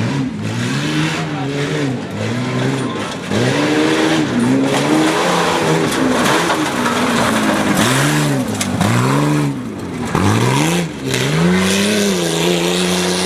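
A tuff truck's engine revving hard and easing off over and over as it works through a dirt obstacle course. The engine pitch rises and falls about once a second, about ten times.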